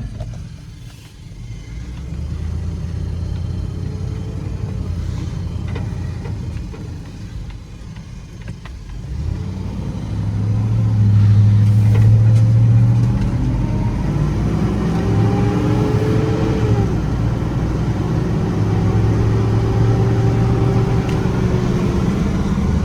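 The 6.2-litre gas V8 of a 2011 Ford F-350 dump truck running as the truck drives off. It runs quieter for the first several seconds, then gets louder from about ten seconds in as it accelerates, with the engine note climbing and dropping back as it shifts up.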